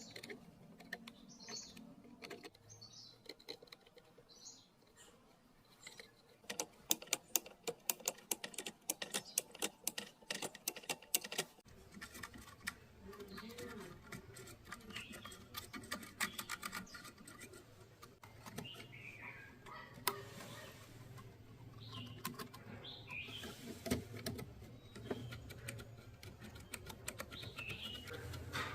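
Small birds chirping, with a rapid run of sharp clicks and taps lasting about five seconds midway. After that a low steady hum sets in under the chirps, with a few more scattered clicks.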